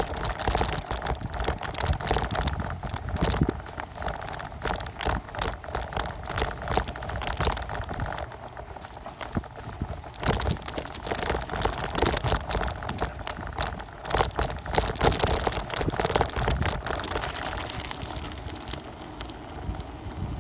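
Ongoing bicycle ride heard from a phone duct-taped on a small tripod to the front of the bike: dense, irregular rattling and clattering as the bike rolls over rough ground, with a hiss that swells and fades.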